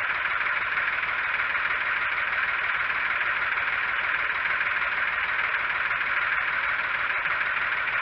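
Massey Ferguson 231 tractor engine running steadily.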